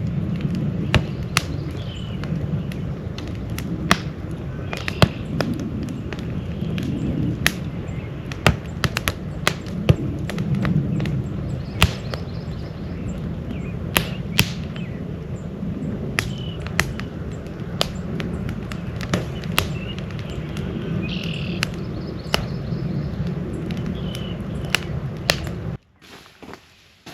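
Campfire crackling: sharp, irregular pops over a steady low rumble, with a few short bird chirps. It cuts off suddenly near the end.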